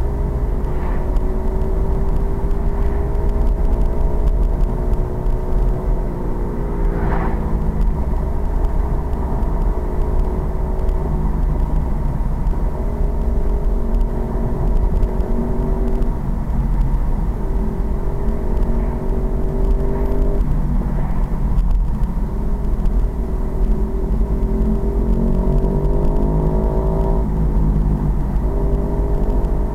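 Pit bike engine pulling through the gears on a ride: its pitch climbs steadily and then drops sharply at each shift, several times over, above a heavy low rumble.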